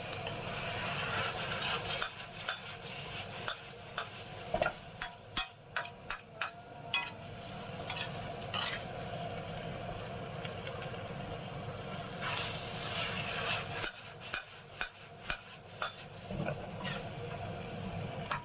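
Food stir-frying in a pan: a steady sizzle, with a spatula scraping and repeatedly clacking against the pan as the food is tossed. The clacking comes in quick runs about a third of the way in and again near the end.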